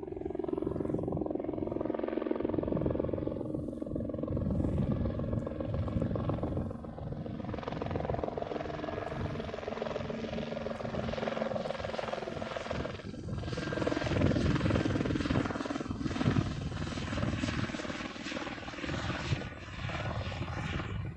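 Helicopter flying past: a steady drone with the rapid, fluttering beat of its rotor blades.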